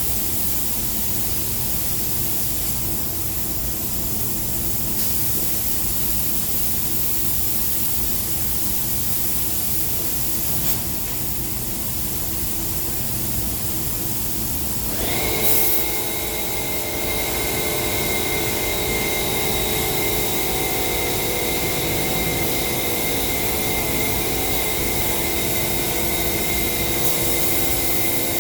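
Spray-painting equipment hissing steadily with a machine running underneath; about halfway through, a high steady whine with several tones cuts in and holds.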